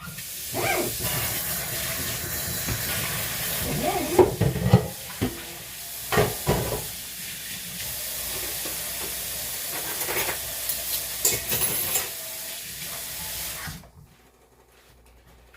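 Beaten eggs for an omelet frying in an oiled pan, a steady sizzle with a few knocks of a utensil against the pan. The sizzle cuts off a little before the end.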